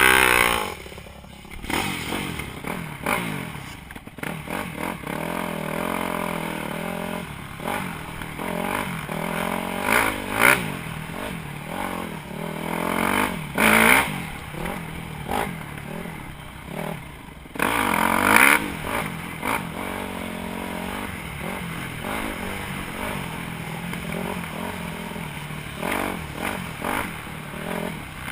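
Dirt bike engine revving, its pitch rising and falling over and over as it accelerates and backs off. There are short louder bursts at the very start and again about 14 and 18 seconds in.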